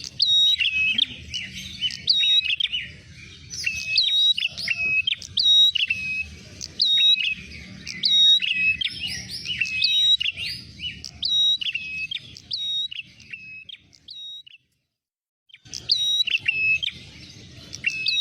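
Prenjak merah songbirds chirping rapidly, with sharp, repeated calls at two pitches overlapping one another, as a bird-lure (pikat) recording. The calls stop for about a second near the end, then start again.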